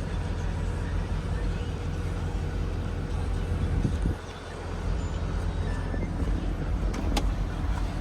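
Mercedes-Benz E63 AMG's 6.2-litre V8 running, its exhaust giving a steady deep rumble. The sound swells slightly and then drops sharply about four seconds in before picking up again, and a sharp click comes near the end.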